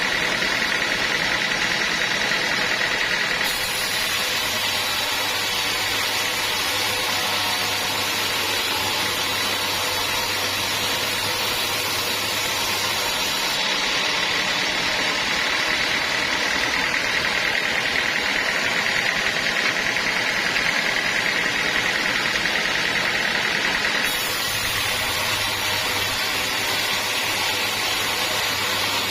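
Sawmill machinery running steadily, with a high whine that drops out and returns with abrupt changes in the sound.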